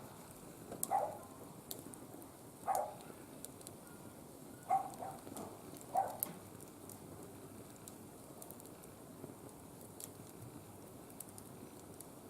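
Wood fire crackling in a barbecue grill, a scatter of small sharp pops, while an animal somewhere makes four short calls in the first half, the loudest sounds here.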